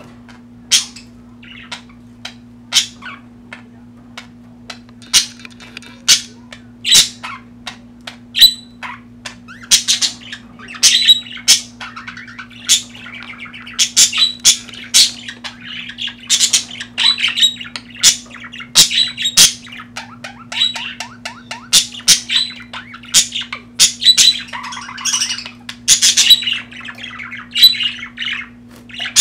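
Budgerigars squawking and chirping in short sharp calls, the chatter growing denser and more continuous from about ten seconds in, over a steady low hum.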